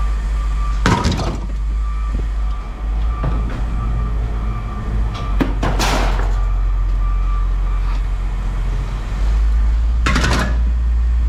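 A vehicle engine runs steadily with a deep rumble, and three loud knocks sound about a second in, midway and near the end.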